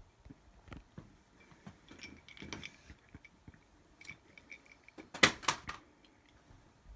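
Drinking glasses being handled: scattered small clicks and clinks, with a brief louder clatter about five seconds in.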